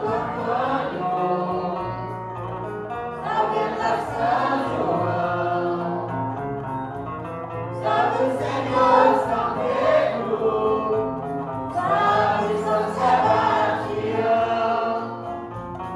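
Music: a group of voices singing a Santo Daime hymn in phrases a few seconds long, over a steady instrumental accompaniment.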